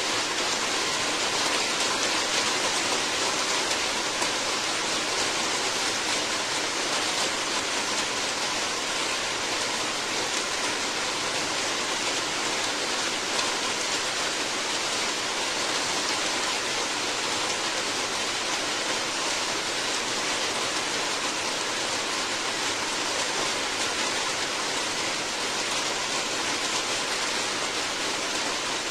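Steady, even rainfall hiss.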